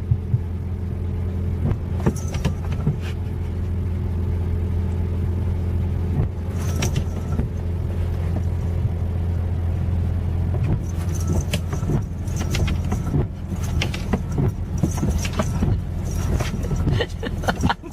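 A steady low motor hum with many scattered clicks and rattles over it.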